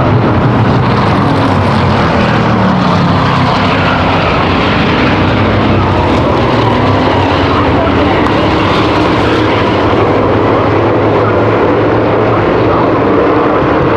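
A field of V8 stock cars and trucks racing, their engines running loud and continuous, with the pitch rising and falling as they pass.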